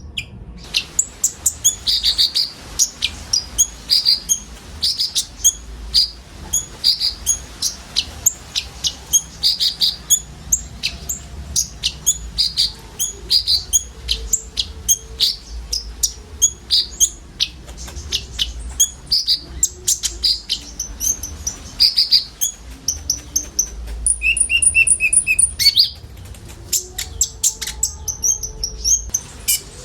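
Several konin sunbirds chirping and singing. Quick, high, short notes repeat steadily, with a faster run of rattling notes near the end.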